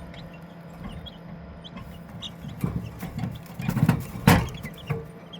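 Chicks peeping faintly over a steady low hum, with a few loud knocks and rustles about four seconds in.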